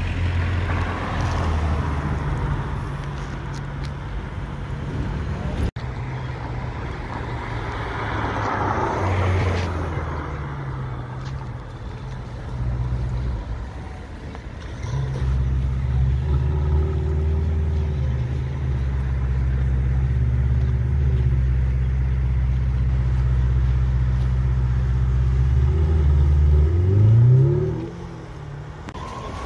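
Ferrari supercar engine running at low revs in slow traffic, a steady deep drone. Near the end it revs up sharply once and then cuts off.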